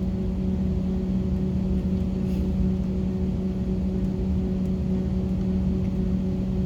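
Airliner cabin noise while taxiing after landing: a steady low rumble with a constant low hum.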